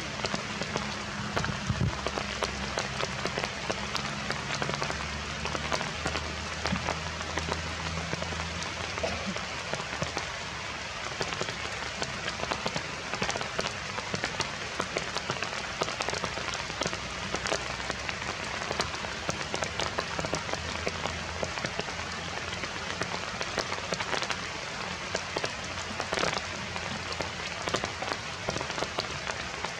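Heavy rain falling steadily, with many close individual drop hits ticking through the constant wash.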